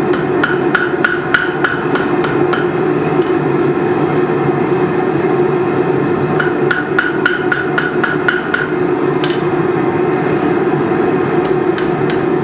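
Hand hammer striking hot steel on an anvil in three runs of quick, evenly spaced blows, about four or five a second, each with a short ring. Under the blows a forge runs steadily.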